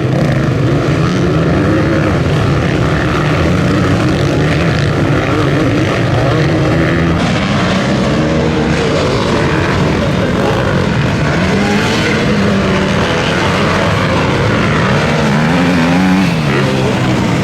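Several motocross bikes racing, their engines revving up and down and overlapping as they accelerate and change gear.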